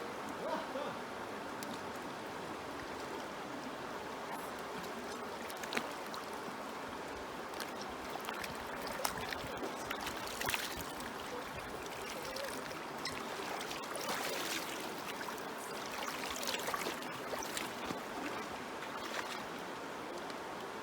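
A small river running steadily, with a few sharp clicks scattered through it.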